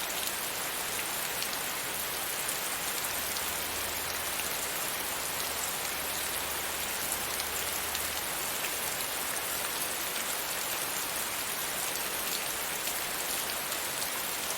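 Steady rain falling against a window, an even hiss with scattered ticks of single drops.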